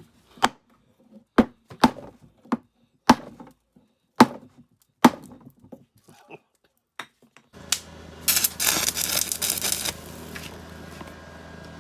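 A series of sharp knocks, roughly one a second, then about two-thirds of the way in a small two-stroke 33 cc trimmer engine starts running: a loud noisy stretch of about two seconds, then a steady running hum.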